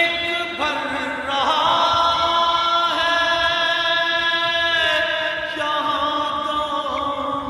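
Chanted singing with long held notes that bend and slide between pitches.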